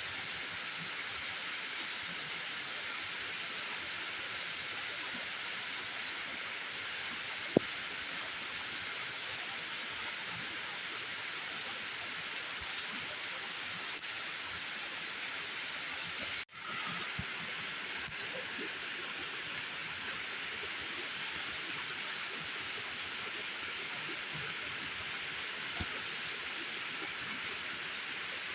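Heavy rain falling steadily, an even hiss with a couple of sharp taps early on. About halfway it drops out for an instant and comes back a little brighter.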